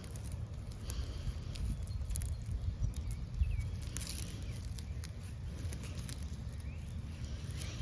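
Light rustling and scattered small clicks of hands working a stick into a garden cover, over a low wind rumble on the microphone, with a few faint bird chirps.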